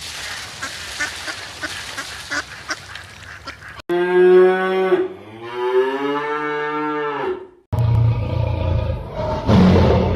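Farm animal calls: a stretch of noisy sounds with scattered clicks, then two long drawn-out calls from the middle on, then rougher, noisier calls near the end.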